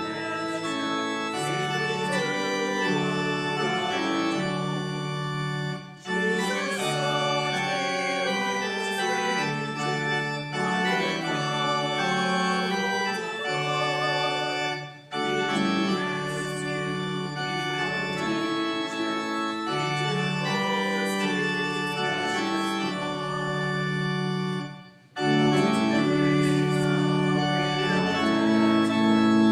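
Organ prelude: sustained chords played in phrases, with short breaks between them about six, fifteen and twenty-five seconds in.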